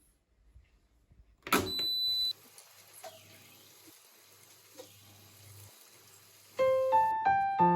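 Piano background music begins near the end. Before it, a short sudden sound with steady high tones comes about a second and a half in, followed by faint room noise.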